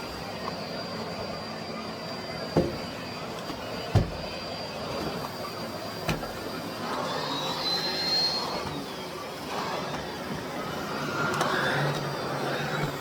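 Miele Blizzard CX1 vacuum cleaner running steadily with a high whine, which briefly rises and falls in pitch a little past halfway. Three sharp knocks come about two and a half, four and six seconds in.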